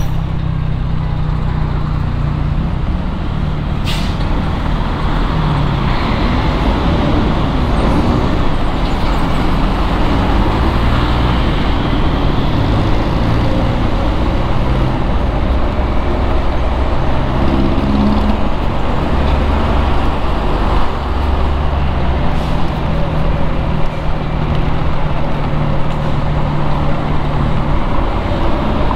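Street traffic: a steady wash of engines and tyre noise, with a low engine drone that shifts in pitch now and then. A single sharp click about four seconds in.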